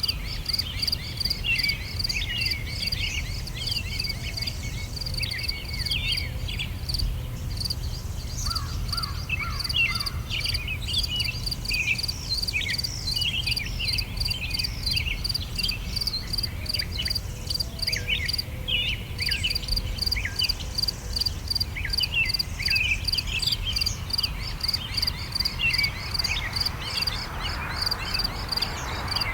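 Crickets chirping in a fast, even rhythm, with songbirds singing short, quick phrases over them and a steady low rumble of background noise.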